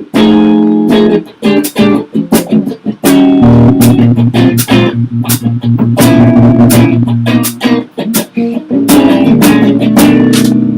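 A rock trio playing together: electric guitar chords over bass guitar, with drum hits throughout. The music starts abruptly at full volume.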